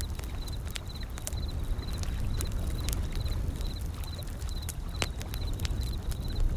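Wood fire crackling with sharp, irregular pops over a steady low rumble of ocean waves, with a short high chirp repeating about twice a second.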